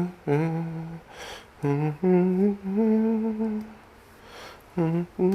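A man humming a tune in a series of held notes, with a short pause about four seconds in.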